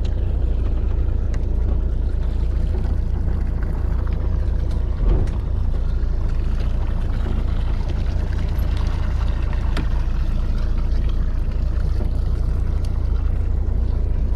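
A fishing boat's engine running steadily with a deep, even hum, with one brief low thump about five seconds in.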